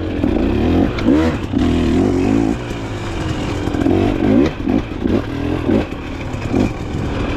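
Enduro dirt bike engine being ridden hard on a trail, its pitch rising and falling again and again as the throttle is worked and gears change, with the odd knock and clatter from the bike.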